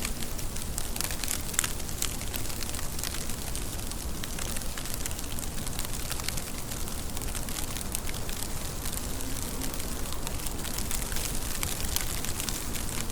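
Steady rain falling, with many sharp drop ticks and crackles over a low, even rumble.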